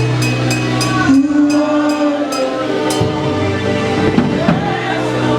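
A live gospel worship band playing between sung lines: held keyboard chords over a drum kit, with regular cymbal strikes.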